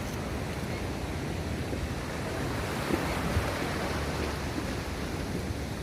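Wind buffeting the phone's microphone over sea water washing at the shore, steady throughout, with a couple of soft knocks about three seconds in.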